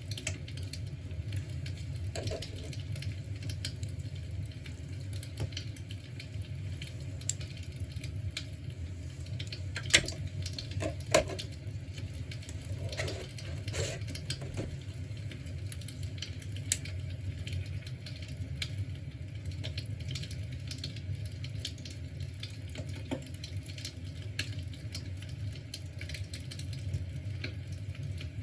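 Soft crackling of an imitation fireplace's fire sound, many small irregular pops over a steady low hum, with a couple of sharper clicks about ten and eleven seconds in.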